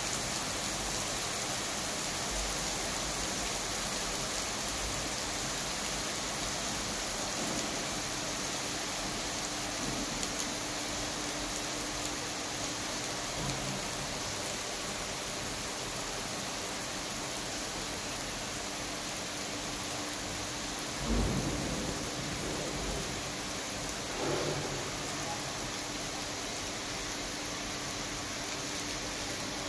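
Steady rain falling on a wet asphalt road and kerb, an even hiss of drops. A brief low rumble comes about two-thirds of the way through, with a smaller one a few seconds later.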